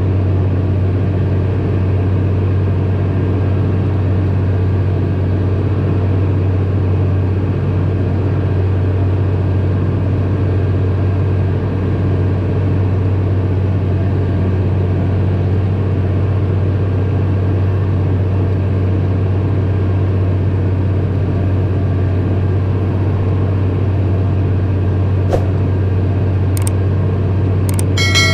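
Tractor engine running steadily: an even, deep drone with no change in speed, with a few sharp clicks near the end.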